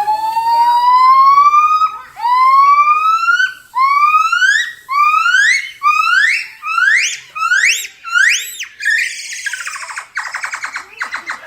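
Gibbon great call: a run of about ten loud rising whoops, the first long and slow, each next one shorter, steeper and higher, speeding up to a peak. Near the end they break into a rapid trill.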